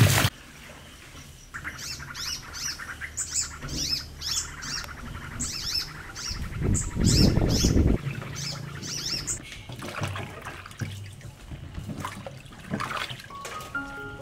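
A bird chirping in a long run of quick, short calls. Running tap water cuts off right at the start, and a brief louder rush of noise comes about seven seconds in.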